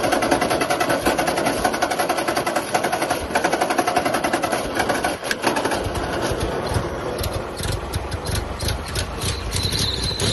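A 1942 Ford 9N tractor's starter cranks its four-cylinder flathead engine with the choke pulled, making a fast, even churn. About six seconds in, the engine catches and runs with a deeper, steady sound.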